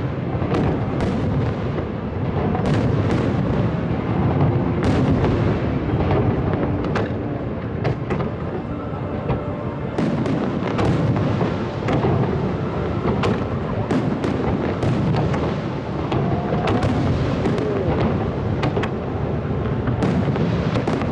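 Large professional fireworks display in full barrage: dozens of sharp shell bursts and bangs over a continuous low rumble of booms, coming thicker in the second half.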